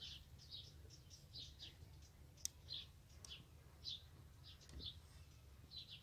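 Faint chirping of small birds: short, high calls repeating every half second or so, with a couple of faint clicks between them.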